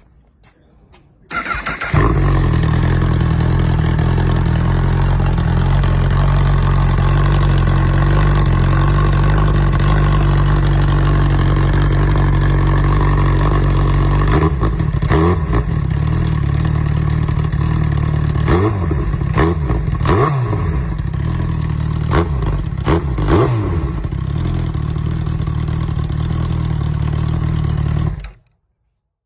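Honda CBR1000RR SC77 Fireblade's inline-four engine through a Racefit Growler titanium exhaust: it starts up about a second in and idles steadily. From about halfway it is blipped up and down in a run of quick revs. It settles back to idle and is switched off a second before the end.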